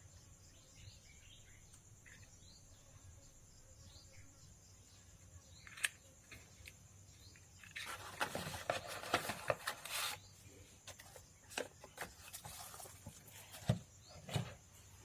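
Faint bird chirps, then handling noise: a sharp click about six seconds in, a burst of rustling and clicking from about eight to ten seconds, and several more sharp clicks near the end.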